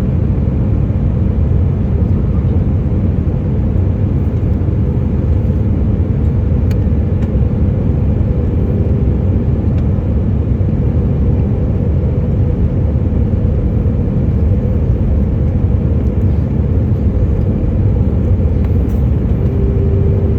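Steady low rumble of a Boeing 737 heard from inside the cabin, the engines and airflow making an even, unbroken drone. A faint steady hum rides on top around the middle and again near the end.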